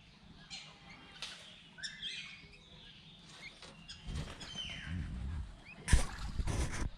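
Duckling peeping: scattered short high calls, some sliding down in pitch. Low rustling and handling noise comes in about four seconds in, with a few loud knocks near the end.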